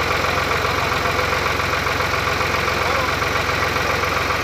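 New Holland TT55 tractor's diesel engine running steadily with even, rapid firing pulses, driving a rotavator puddling a wet field.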